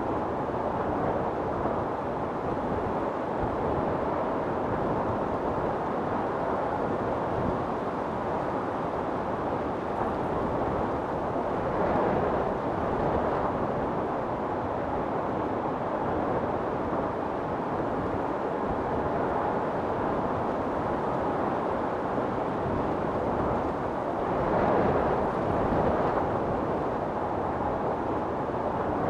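Storm wind blowing hard and steadily, with two louder gusts swelling up about twelve seconds in and again near the end.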